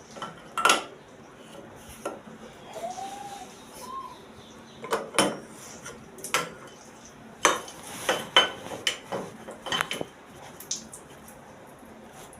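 Metal plumbing fittings and hand tools clinking and knocking as a bathroom mixer tap is fitted: about a dozen separate sharp strikes, most of them in the second half.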